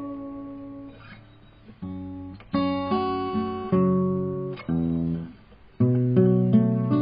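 Acoustic guitar playing a slow instrumental intro: one chord rings and fades, then a new chord is struck about every second after a short pause.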